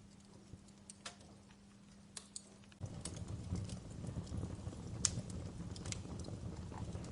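Wood fire crackling, with scattered sharp pops. About three seconds in, a louder low rumble of burning comes in and continues under the pops.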